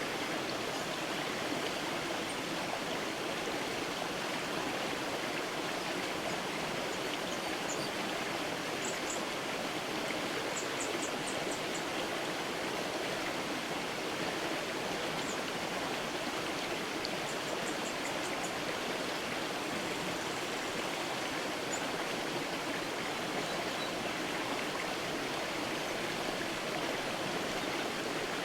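Creek water flowing steadily, an even rushing sound. Faint, high bird chirps come through a few times in quick runs around the middle.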